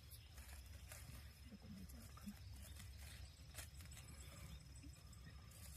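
Near silence: a faint low outdoor rumble with a few soft clicks, and a thin steady high tone that stops near the end.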